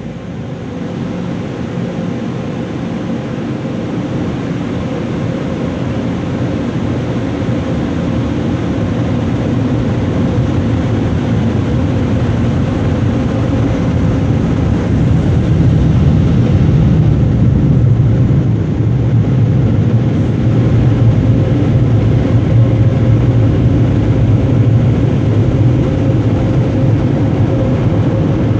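Car wash air dryer blowers running, a loud steady blowing roar with a constant hum, heard from inside the car; it grows louder over the first ten seconds or so and then holds.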